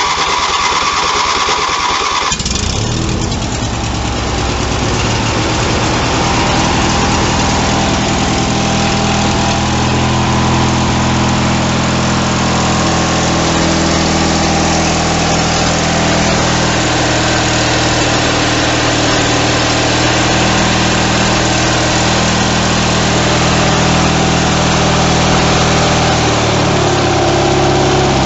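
Ranch King riding mower engine cold-starting on choke: the electric starter cranks it for about two seconds, then it catches and keeps running steadily, its speed shifting slightly now and then.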